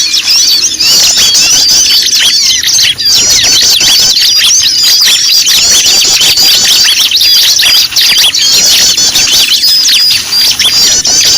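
A loud, dense chorus of many small birds chirping and squeaking at once, with rapid overlapping short calls that never let up: a noisy-bird lure recording used to draw in wild birds.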